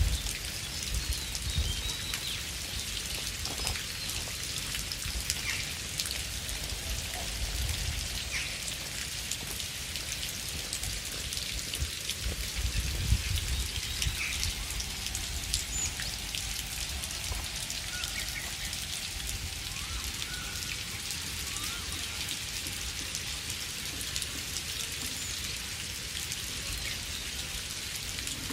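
Steady rain falling, a constant hiss with many close individual drops ticking. Low rumbles swell up now and then, at the start and around a few seconds, eight and thirteen seconds in.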